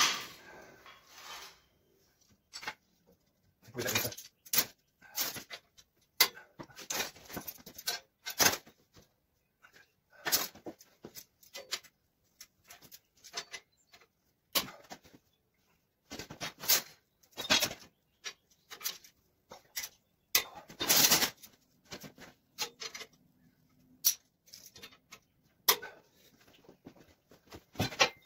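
Irregular metal clinks, taps and knocks as steel hoops of an armillary sphere are handled and set in position. A few heavier, longer knocks stand out, the loudest about three-quarters of the way through.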